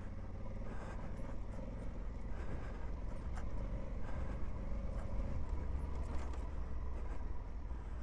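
Honda Africa Twin's parallel-twin engine running steadily as the motorcycle rides along a dirt trail, with heavy wind rumble on the microphone, tyre noise, and a few light clicks.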